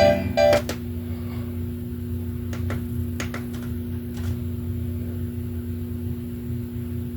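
Steady machine hum with a low rumble, like an appliance or fan running. It is broken by two short pitched sounds right at the start and a few faint clicks.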